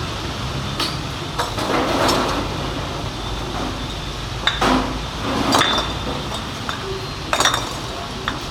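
Scattered sharp clinks and knocks, about seven, like metal or tools being handled, over a steady low rumble.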